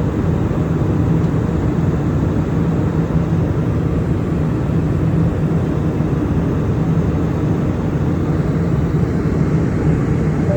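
Steady low rumble inside a passenger airplane's cabin in flight: engine and airflow noise, unbroken throughout.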